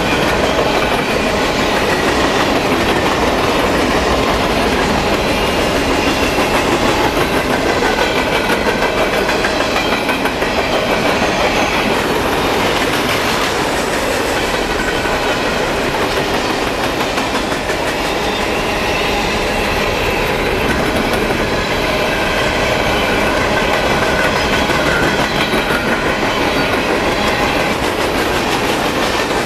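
A freight train of empty coal cars rolling past, with a steady clatter of steel wheels over the rails.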